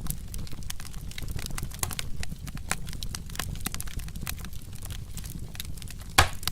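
Wood fire burning, crackling with many irregular sharp pops over a low steady rumble, and one louder pop near the end.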